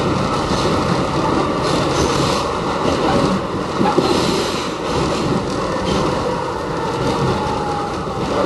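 R68 subway car 2500 running along the track: a steady loud roar of wheels on rail and running gear, with faint high rattles coming and going.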